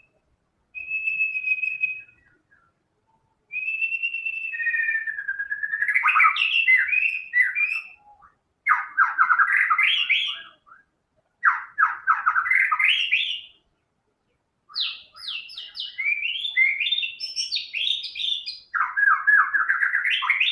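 White-rumped shama singing: two long, steady whistled notes, then four phrases of rapid trills and swooping notes with short pauses between them.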